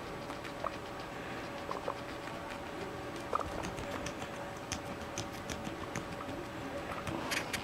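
Guinea pigs munching cabbage: irregular small crunching and rustling clicks over a faint steady hum.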